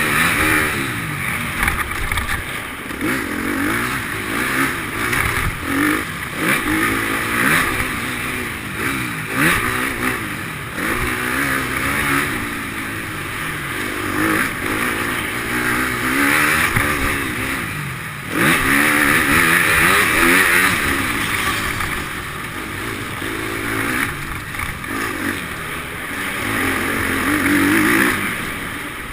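Motocross bike engine revving up and down over and over, its pitch rising and falling as the bike accelerates and shifts around the track.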